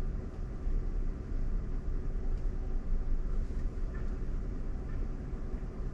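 Steady low road and tyre rumble heard inside the cabin of a Waymo self-driving Jaguar I-Pace, an electric car, while it drives.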